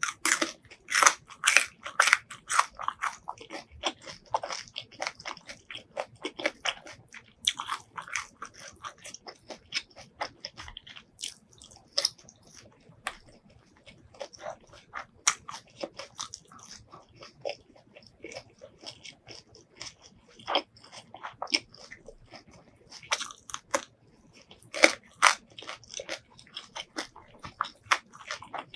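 Close-miked eating sounds: a person chewing food with many sharp, crisp crunches and wet mouth sounds, densest in the first few seconds and again near the end.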